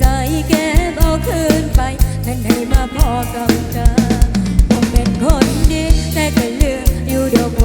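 Live band music with a steady drum-kit beat, bass and a melody line bending in pitch.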